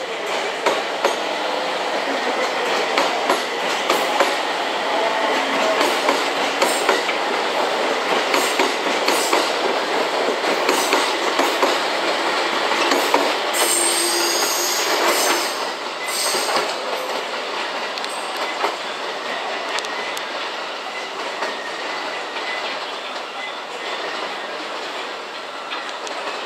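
JR East 701 series electric train departing over the station's points: wheels clattering over rail joints and switches in an irregular stream of clicks, with a high wheel squeal on the curve for a few seconds about halfway through. The noise fades after that as the train moves away.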